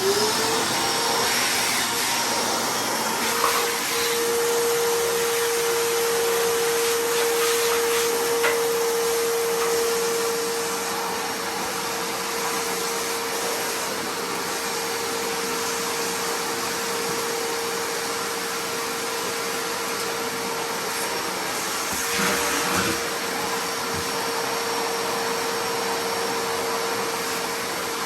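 Vacuum cleaner switched on, its motor whining up to speed, then running steadily while clipped dog hair is vacuumed up.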